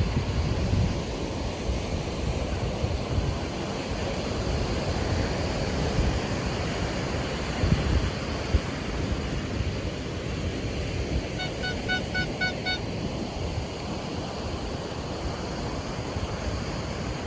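Surf washing on a beach, with wind buffeting the microphone in low gusts. About two-thirds of the way through, a quick run of short, high beeps lasts just over a second.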